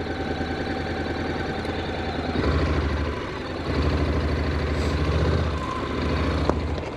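Motorcycle engine running at low speed, a steady low rumble that swells louder in three stretches.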